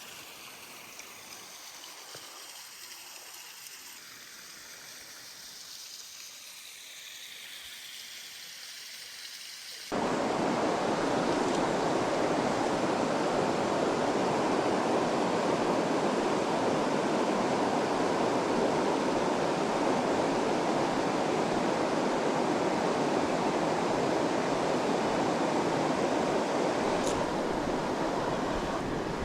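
Faint outdoor hiss for about ten seconds, then a sudden cut to a loud, steady rush of river water tumbling over rapids, which runs on to the end.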